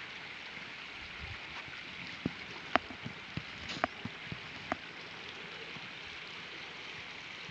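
Steady rushing of water from the stream and waterfalls in the gorge below the lake. A handful of sharp clicks break in between about two and five seconds in.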